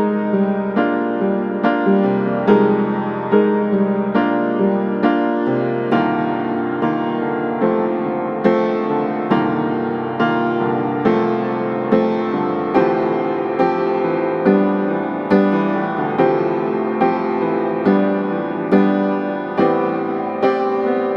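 Background piano music: a slow, gentle melody played in evenly spaced notes, about one struck note every second.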